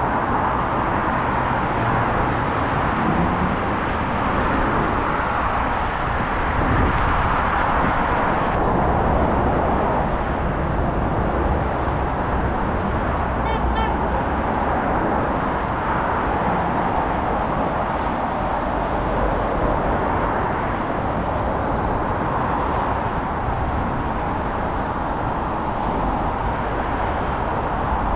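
Steady rush of road traffic noise, with a faint short run of high ticks about halfway through.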